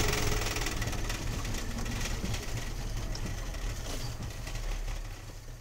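A vehicle's engine running steadily with a low rumble and hiss, slowly fading out.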